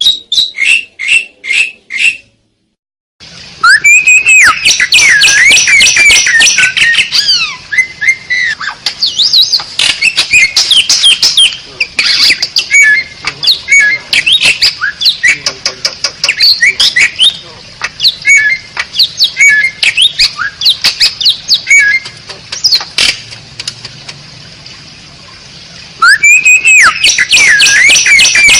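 Asian pied starling (jalak suren) singing: a run of five short repeated notes, a brief break, then a long, fast, loud stream of varied whistles, chattering trills and squawks. The song eases briefly near the end, then comes back loud.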